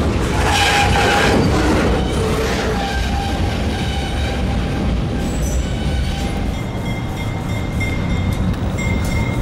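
Freight train cars rolling past on the rails with a steady low rumble and clatter of wheels, and a brief high wheel squeal about half a second in.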